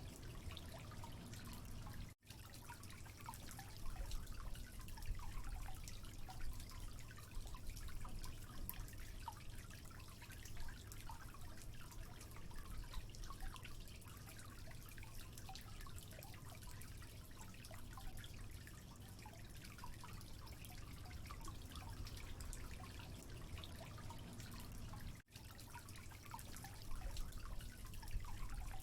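Water trickling and dripping, many small droplets over a steady low rumble. The sound cuts out for a split second twice.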